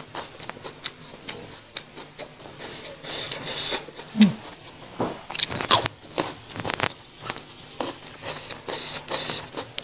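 Close-up crunchy chewing and biting of raw young jengkol (dogfruit) seeds, mixed with small clicks and scrapes of the seed skins being peeled by hand.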